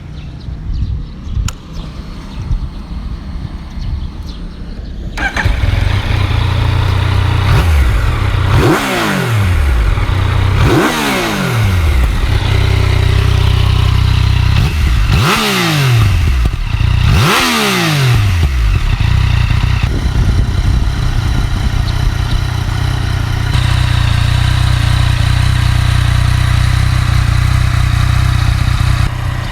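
Yamaha MT-09 three-cylinder motorcycle engine: after a few seconds of clatter it starts about five seconds in and idles, is blipped up four times with the pitch falling back after each rev, then settles to a steady idle.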